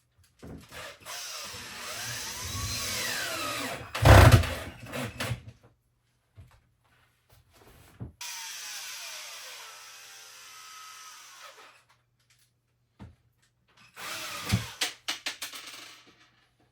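Power drill running in spells, its whine rising and falling in pitch as it speeds up and slows, with a loud knock about four seconds in and a run of short bursts near the end.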